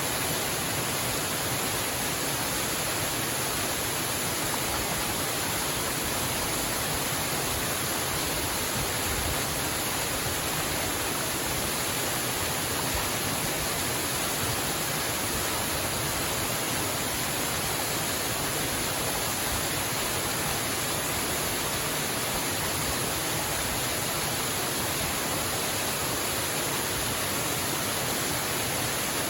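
Waterfall: a steady, even rush of falling water that holds one level throughout.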